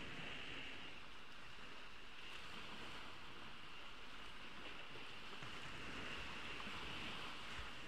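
Ocean waves washing on a beach, a steady wash of surf with gentle swells, over a constant high-pitched hiss.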